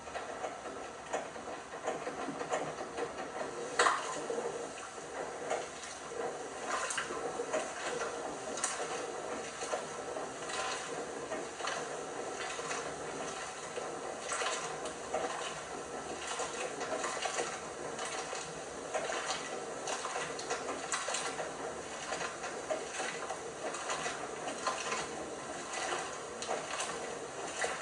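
LG washing machine mid-wash: water sloshing in the turning drum with irregular light clicks and knocks, one sharper knock about four seconds in.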